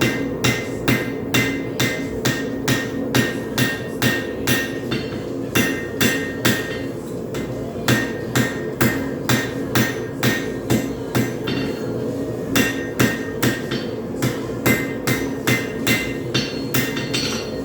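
Hand hammer striking a hot railroad spike on an anvil while forging a knife blade, about two to three ringing blows a second with two short pauses, over a steady hum.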